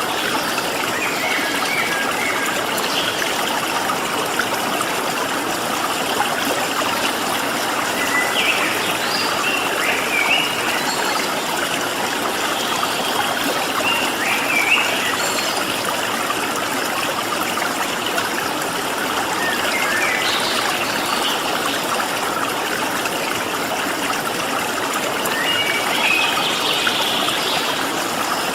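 Stream water flowing steadily, with small birds giving short chirps and calls now and then over it, a little denser near the end.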